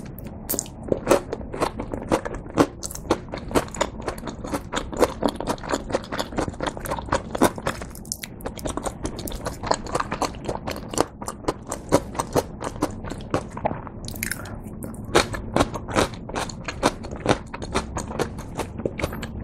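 Crunching and chewing of a crispy breaded, deep-fried cheese pork cutlet: rapid crackles of the crust as it is bitten and chewed, several a second, with a couple of short pauses.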